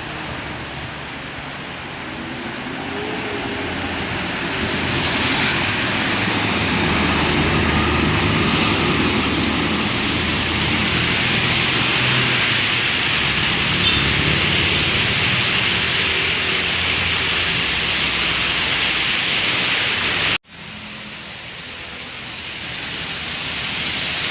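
A heavy vehicle on a rain-wet road, a truck or bus, with its engine drone and tyres hissing through standing water. It grows louder over the first few seconds and holds, then cuts off abruptly about twenty seconds in before the road noise starts again.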